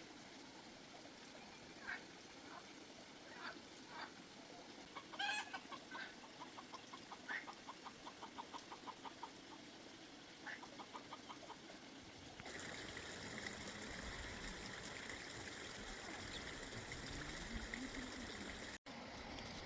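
Domestic chickens clucking, with one quick even run of clucks at about five a second. About two-thirds of the way through, a steady background hiss takes over.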